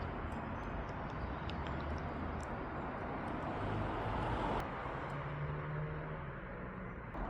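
Steady rumble of road traffic, swelling about four seconds in as a vehicle passes, with a faint engine hum after it.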